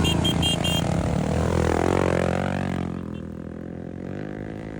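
Race vehicle engine running loudly, with four short high beeps in the first second. The engine falls away and grows quieter about three seconds in.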